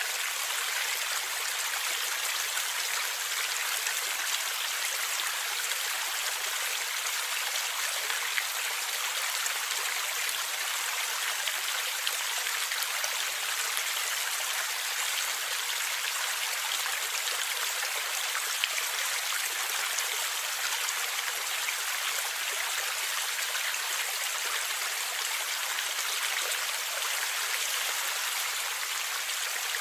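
Stream water flowing and gurgling steadily, an even rushing hiss with no pauses.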